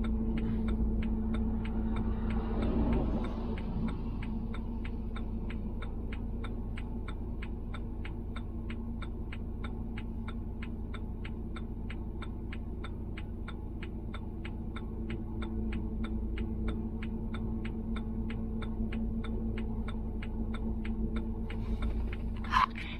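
A vehicle's flasher ticking evenly, about three ticks a second, over the steady low hum of the vehicle. A brief sharp noise comes near the end.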